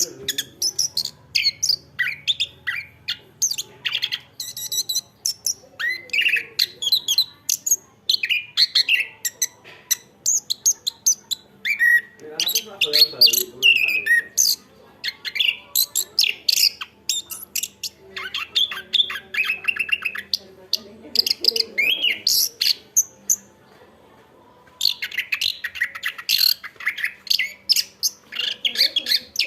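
Chestnut-capped thrush singing a fast, varied run of chirps and whistles, with a pause of about two seconds about three-quarters of the way through.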